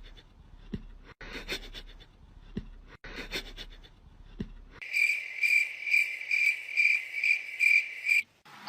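Faint scattered clicks, then about five seconds in a steady, even insect chirping: a high note pulsing about three times a second that stops shortly before the end.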